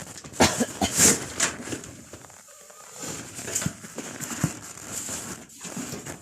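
Irregular rustling and crinkling with a few sharp knocks, as of material being handled and moved about.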